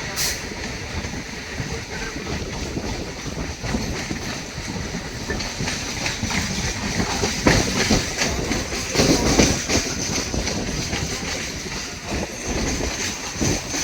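Electric train made up of a WAG-5 locomotive hauling a new MEDHA three-phase AC EMU rake, running on the track with the wheels clattering over rail joints. It grows louder about seven to ten seconds in.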